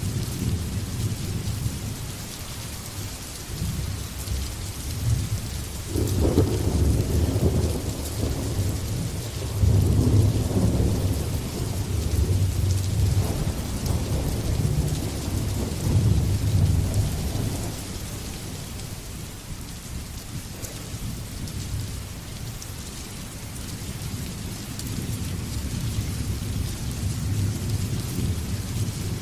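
Steady heavy rain hissing, with rolling thunder: a rumble breaks out about six seconds in and keeps swelling, loudest around ten and sixteen seconds, then dies down to a low grumble that picks up a little again near the end.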